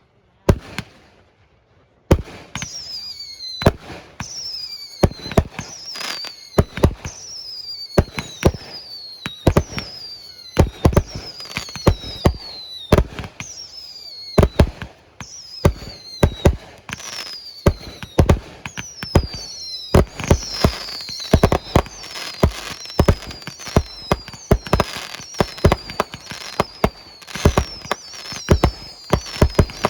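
Fireworks going off in quick succession: sharp reports, many with short high whistles that fall in pitch. After one report and a near-quiet opening, the barrage starts about two seconds in and grows denser toward the end.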